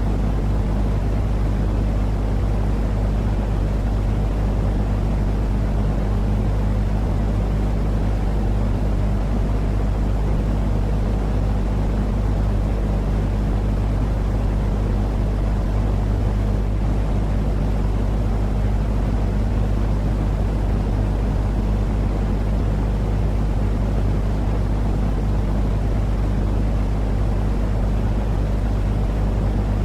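Steady, unchanging low rumbling noise with a constant low hum running under it, a machine-like drone played as white noise to lull a baby to sleep.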